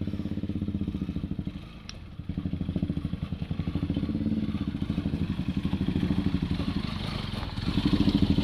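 Motorcycle engine running with its rapid, even firing pulses; it eases off briefly about two seconds in, then revs up near the end.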